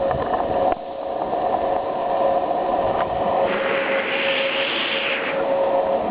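Steady mechanical hum with a hiss starting about three and a half seconds in and lasting nearly two seconds.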